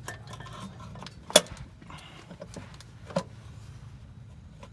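Hard metallic knocks and clinks as a starter motor is worked up into place against the engine. There is a sharp knock about a second and a half in, another near three seconds, and lighter clicks between.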